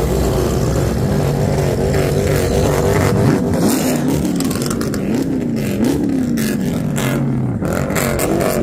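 Dodge Challenger SRT Hellcat Redeye's supercharged V8 idling loudly, then revved in several quick blips between about three and six and a half seconds in before settling back to idle.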